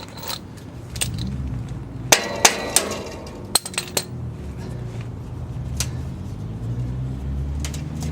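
Metal tools knocking and clinking on exhaust pipe and hardware: a cluster of sharp knocks with a brief metallic ring about two seconds in, then a few lighter clinks, over a low steady hum.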